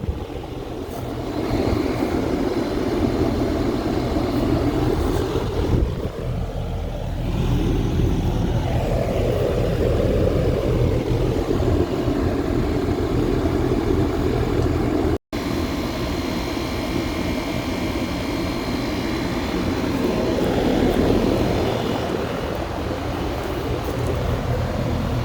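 Steady mechanical running noise: a low hum with a rushing sound over it that swells and fades, cut off for an instant about fifteen seconds in.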